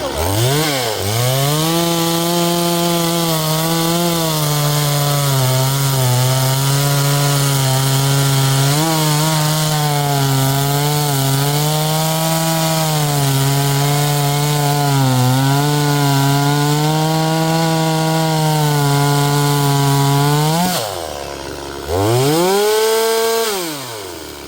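Holzfforma G260 two-stroke chainsaw revving up and cutting through a log, its engine speed wavering under load for about twenty seconds, then dropping to idle, revving briefly once more and settling back to idle. The saw is dragging in the cut, as if something is holding the chain back and pinching it, a fault the owner cannot yet explain.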